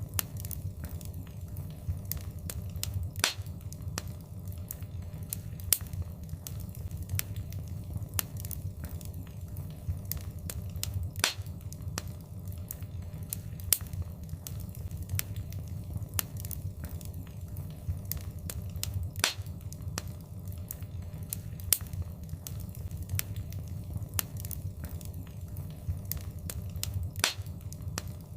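Wood fire crackling over a steady low rumble, with frequent small snaps and a sharper pop about every eight seconds.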